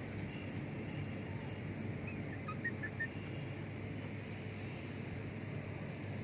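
A few short, high chirps from birds in quick succession about halfway through, over a steady low rumble of background noise.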